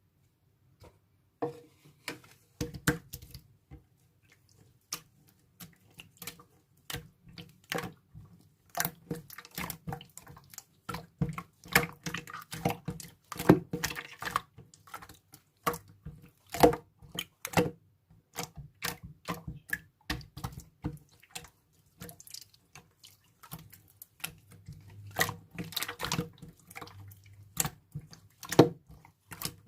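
Slime being squeezed, stretched and poked by hand, making irregular wet clicks and pops.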